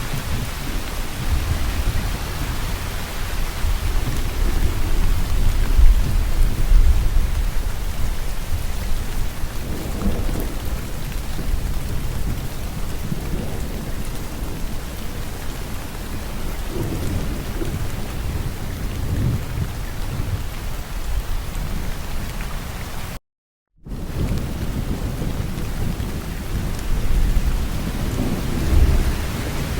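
Steady rain falling, with low thunder rumbling several times, loudest about five seconds in and again near the end. The sound cuts out completely for about half a second roughly three-quarters of the way through.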